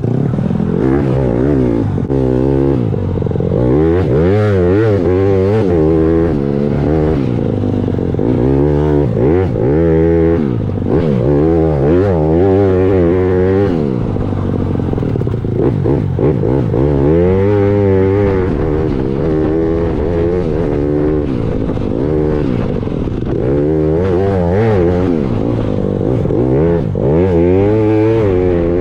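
Dirt bike engine revving hard and easing off again and again, its pitch climbing and dropping as the rider works the throttle and gears.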